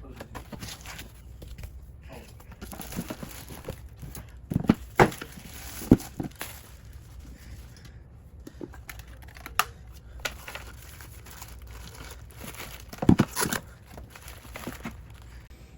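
Packaging crinkling and rustling as a pet water fountain is unpacked, with a few sharp knocks of parts being handled, the loudest about five seconds in and again near thirteen seconds.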